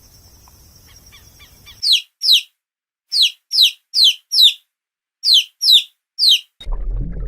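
A songbird calling: nine short, high chirps, each falling in pitch, given in groups of two, four and three. Near the end a different, low sound starts.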